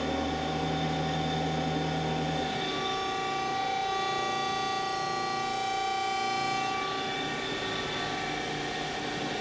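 DoAll CNC vertical angle-cutting band saw running with its hydraulics on: a steady machine hum with several steady whining tones. A low hum drops out about two and a half seconds in, and the whining tones shift for a few seconds in the middle.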